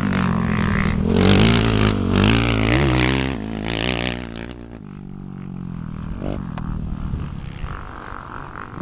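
Engines of off-road racing machines revving hard as they pass, pitch rising and falling with the throttle, then dropping in pitch and fading away about five seconds in.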